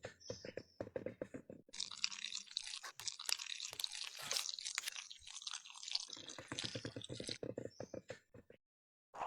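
Rapid hand rubbing or scraping strokes on a hard surface, several a second, with a harsher continuous scraping stretch in the middle; the sound cuts off abruptly shortly before the end.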